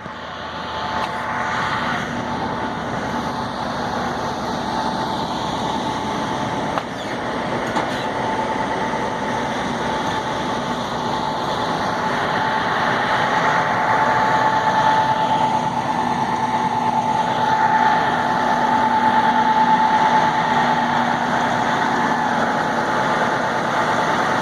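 Heavy-haul truck rig with a 124-wheel trailer moving slowly past: steady engine and rolling noise with a held whine, growing louder in the second half.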